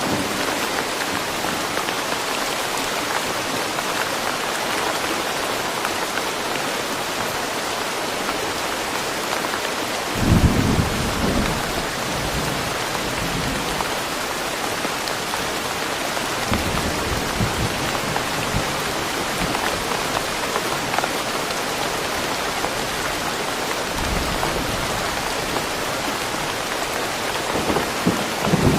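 Steady rain falling on trees, an even hiss, with low rolls of thunder: the loudest about ten seconds in, fainter ones later on, and another near the end.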